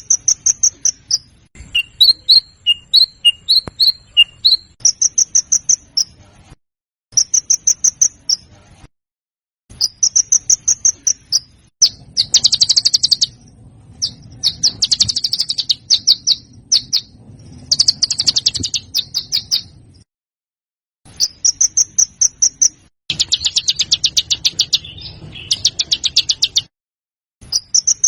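Small songbird singing in an edited training recording: phrases of fast, high chirps and rough, rapid rattling trills, each phrase a second or three long. The phrases are separated by abrupt dead-silent gaps where the recording is cut and looped.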